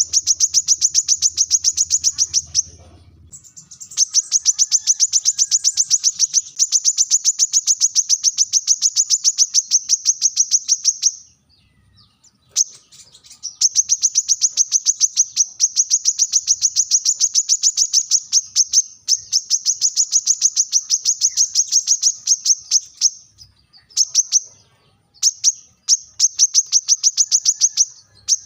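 Brown-throated sunbird (kolibri kelapa) calling: long runs of sharp, high notes repeated rapidly, about eight a second, broken by short pauses a few times.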